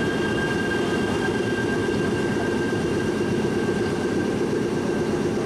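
Electric train sound: a steady rumble with a few constant high whine tones, unchanging throughout.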